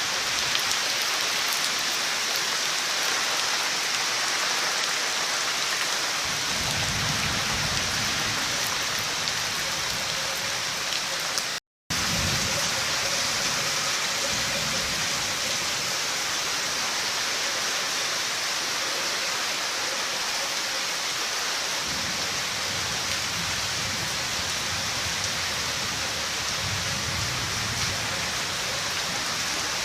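Heavy rain falling steadily, with low rumbles at times. The sound cuts out completely for a moment about twelve seconds in.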